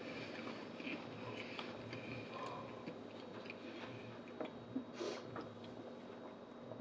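Faint close-up chewing and wet mouth sounds of a person eating, with a few soft clicks.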